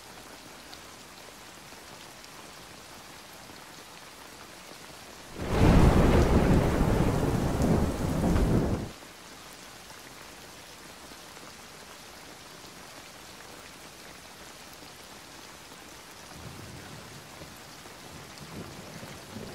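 Steady rain with a loud rumble of thunder about five and a half seconds in, lasting some three seconds, and a fainter rumble of thunder near the end.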